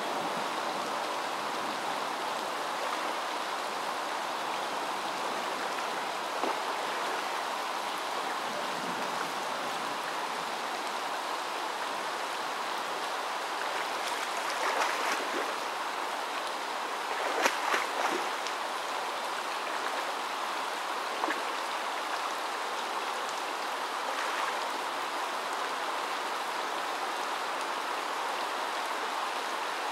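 Steady rush of rain and running water, with a few short splashes from a tiger wading through the pool, the loudest about halfway through.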